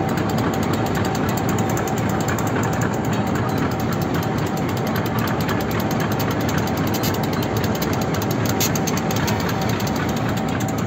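Passenger train running through desert, heard from an open coach window: a steady rumble of wheels on rail mixed with rushing air, with a faint steady whine through most of it.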